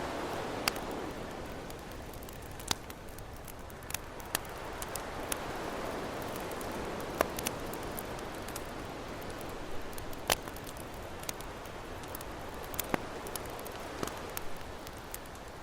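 Campfire crackling, with irregular sharp pops and snaps of burning wood, over the steady wash of ocean waves that slowly swells and eases.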